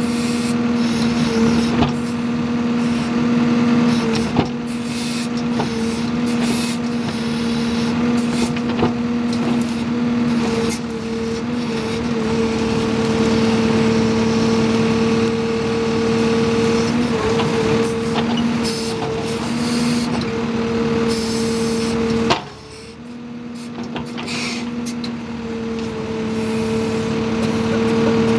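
A backhoe working: its engine runs steadily with a droning whine, mixed with scattered knocks and clanks. The level drops sharply about 22 seconds in, then builds back up.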